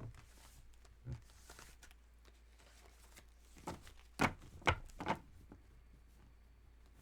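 A few sharp light knocks or taps, four close together between about four and five seconds in, with a softer thump about a second in.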